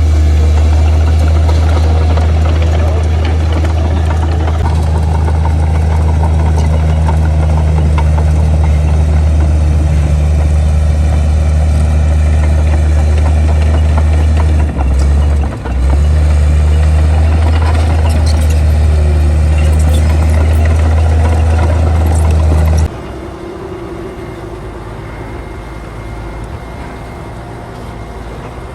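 Heavy diesel engine of earthmoving machinery running steadily with a loud, deep drone. It dips briefly about fifteen seconds in. About twenty-three seconds in it cuts off abruptly to a quieter, rougher mechanical rumble.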